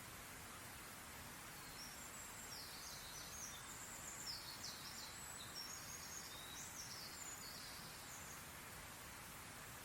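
Faint bird chirps, short high notes in quick runs, mostly in the middle stretch, over a steady background hiss of outdoor ambience.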